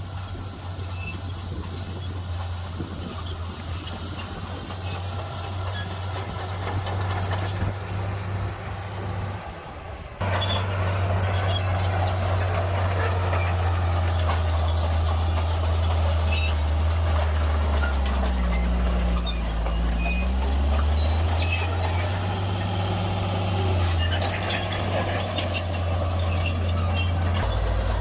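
Heavy diesel earthmoving machinery running steadily, with scattered clanks and rattles of metal and rock. The sound cuts and comes back louder about ten seconds in, and a little past halfway the engine note sags briefly and recovers, as under load.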